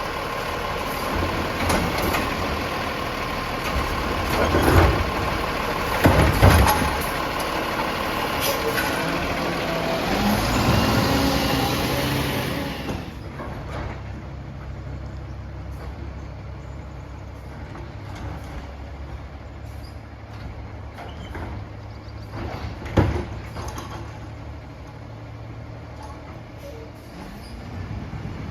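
Peterbilt 320 garbage truck with a Wayne Curbtender body running. For the first dozen seconds it is loud, with a steady whine and several bangs, then it drops to a quieter steady idle, with one more thump near the end.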